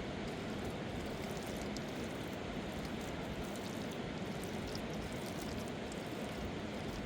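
Steady rushing water: an even, unbroken noise that holds the same level throughout, with faint scattered patters on top.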